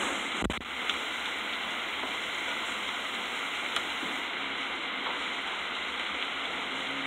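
Heavy storm rain pouring steadily, heard from behind a window pane, with a few faint sharp ticks and one dull bump about half a second in.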